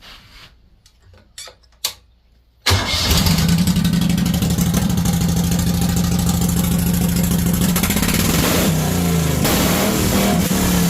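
Pulling tractor's engine started: after a couple of short clicks it catches suddenly a little under three seconds in and runs loud and steady, then revs up and down a few times near the end.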